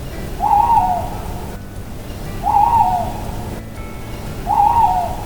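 Owl hooting three times, about two seconds apart, each hoot short and slightly wavering in pitch.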